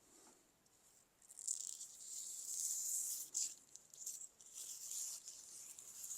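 Knife blade scraping against a Tormek sharpening machine's rotating wheel: a high, hissy grinding noise that starts about a second in and comes in several passes of a second or two each as the blade is drawn along the wheel.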